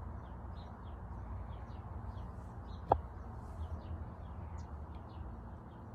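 Small birds chirping in quick, faint, repeated short notes over a low steady hum, with one sharp click about three seconds in.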